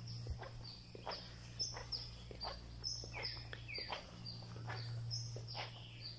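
Birds chirping repeatedly, short high calls several times a second, some falling in pitch, over a steady low hum.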